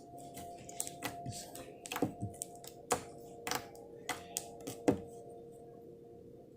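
A string of irregular sharp clicks and taps, about a dozen, between about one and five seconds in, over a faint steady hum.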